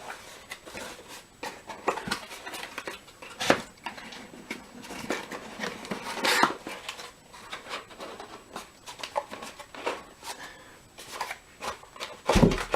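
Rustling, scraping and clicking of packaging being handled as an item is worked out of a styrofoam box, with a louder thump near the end.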